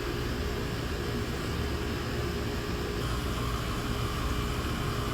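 Refrigerant vacuum pump running steadily with an even hum, pulling a deep vacuum on a split-system AC after a compressor replacement.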